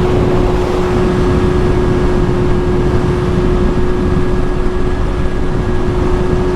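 Kawasaki Ninja ZX-6R engine holding a steady note at cruising speed, under a loud, even rush of wind on the microphone.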